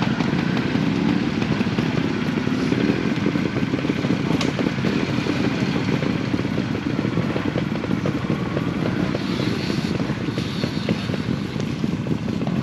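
Steady rushing rumble with dense crackle and clatter, as of an electric trials bike being ridden over rough ground with wind on the microphone.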